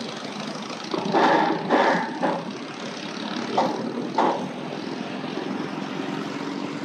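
Motorcycle engines running as they pass in steady traffic, a continuous drone with several louder swells about a second in, at two seconds and near the middle.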